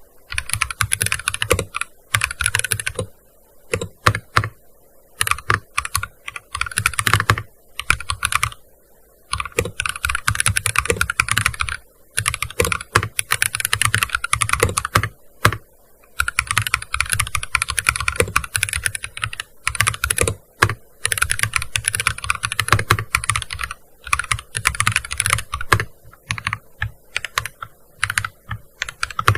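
Typing on a gaming keyboard: fast runs of key clicks in bursts of a few seconds, broken by short pauses.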